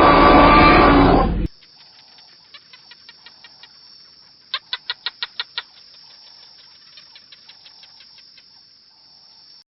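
A loud, rough animal roar that cuts off about a second and a half in. It is followed by quiet, rapid bird chirping or clucking, with a quick run of about seven sharp, louder calls in the middle.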